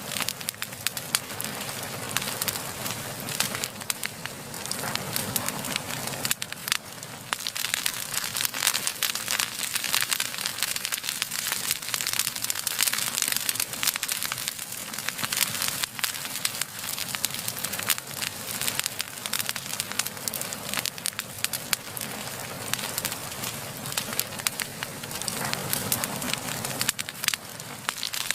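A blazing fire burning, with dense, continuous crackling.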